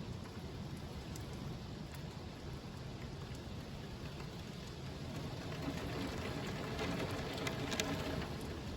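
Steady rain falling, with drops tapping on surfaces. It grows a little louder in the second half, with a few sharp drip taps near the end.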